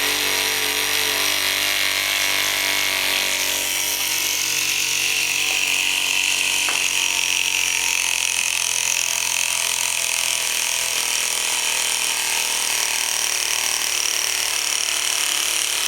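A Chinese-made Stirling engine running steadily, a continuous mechanical whirring rattle; the sound gets higher-pitched about three and a half seconds in.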